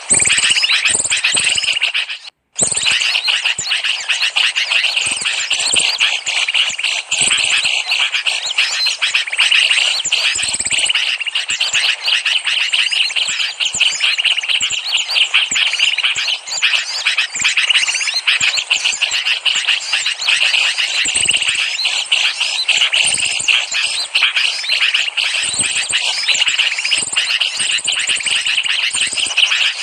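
Bird-lure recording of many small birds chirping and twittering rapidly in a dense, continuous chorus, with a brief break about two seconds in.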